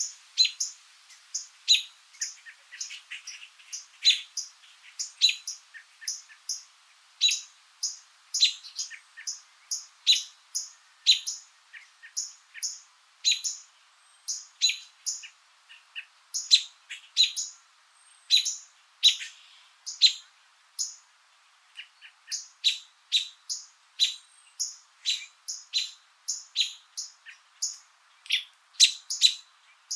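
Small birds chirping: a steady stream of short, high-pitched chirps, several a second and often overlapping.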